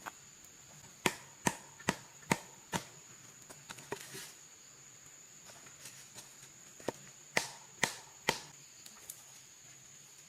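Blade chopping wood: a run of five sharp strikes, a pause, then four more.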